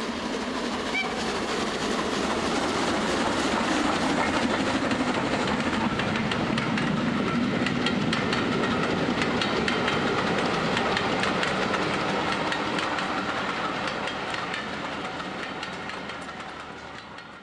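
A train running on rails, with frequent clicks of the wheels over the track. It grows louder over the first few seconds, holds steady, and fades out near the end.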